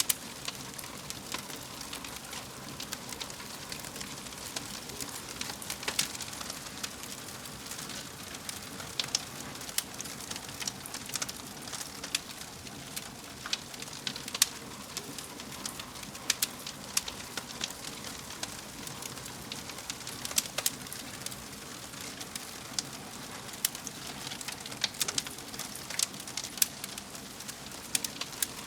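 Wood fire crackling, with irregular sharp pops and snaps over a steady soft hiss of burning.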